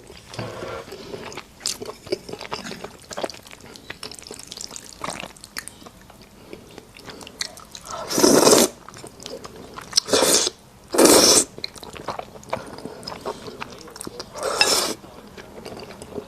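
Close-up eating sounds: chewing and small mouth clicks, with four louder noisy bursts of about half a second each in the second half.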